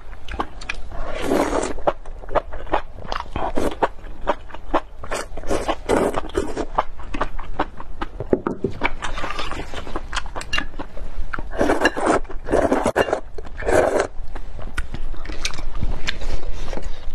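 Close-miked chewing and eating: many quick wet mouth clicks and smacks, with a few longer, louder patches of chewing noise.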